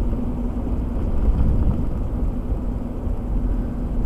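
Car cabin noise while driving: a steady low rumble of engine and tyres on the road, with a steady hum through it.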